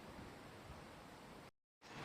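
Faint steady outdoor background hiss, broken by a brief gap of dead silence near the end.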